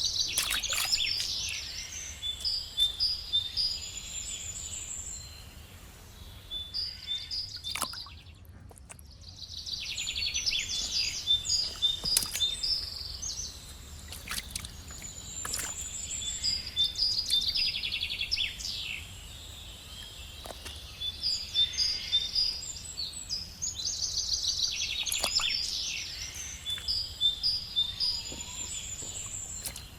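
Birds chirping and singing in repeated high, quick phrases, with a few sharp clicks. The sound drops out briefly about eight seconds in.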